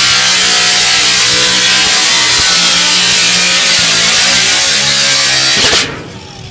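Power tool cutting through the sheet-metal outer pipe of a prefabricated chimney: a loud, harsh, steady cutting noise over a motor hum. Near the end the tool shuts off and winds down.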